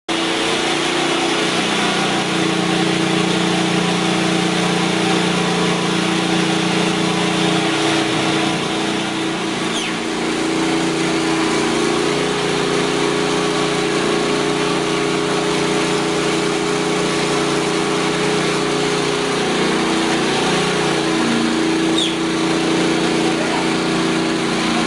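A machine's engine running steadily, with its pitch shifting a couple of times.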